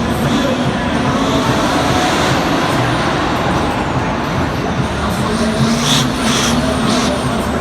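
Monster truck driving, its motor whining up and down in pitch over steady noise, with a few short knocks near the end.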